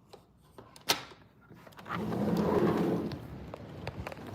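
A lock or latch clicks sharply about a second in, then a sliding door rolls open with a steady rumbling noise from about two seconds in.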